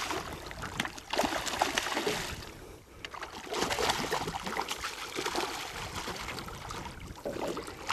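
Water splashing and sloshing around a small boat as a hooked redfish is fought up to the side, in several noisy surges with short lulls between them.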